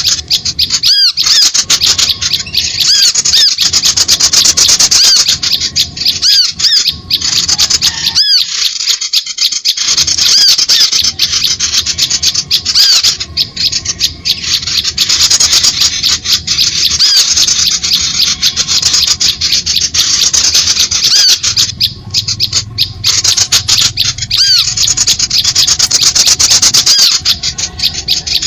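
Bird-lure recording: a loud, dense, unbroken chorus of rapid high-pitched small-bird chirps and squawks, the mixed calls played to draw small birds to limed sticks.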